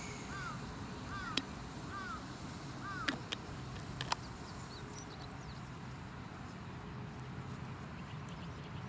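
A bird calling in a repeated series of short arched notes, about one a second, stopping about three seconds in, over a wood campfire that gives a few sharp crackling pops.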